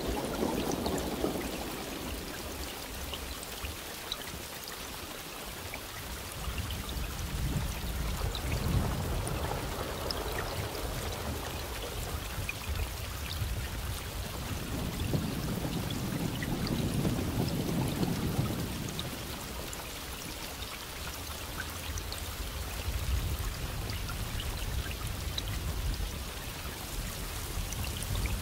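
Steady heavy rain, a dense hiss with many small drop ticks. Low rumbles of distant thunder swell and die away three times: at the start, about a third of the way in, and just past the middle.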